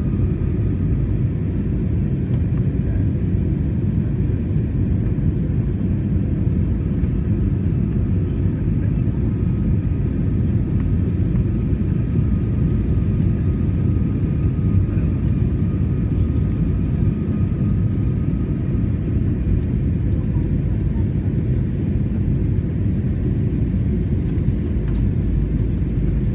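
Steady low rumble of an Airbus A321 airliner's engines and airflow heard inside the passenger cabin during descent, with a few faint steady tones above it.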